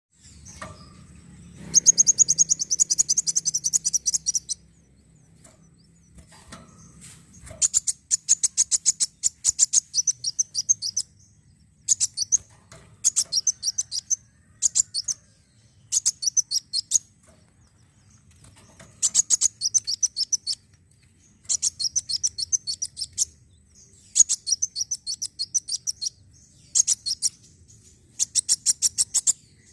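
Kolibri wulung sunbird singing: bursts of rapid, high-pitched chipping notes, each a second to a few seconds long, repeated again and again with short pauses between them.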